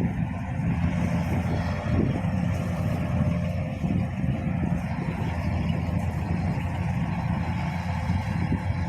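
Kubota DC combine harvester's diesel engine running steadily with a low, even hum, along with the clatter of the machine's working parts.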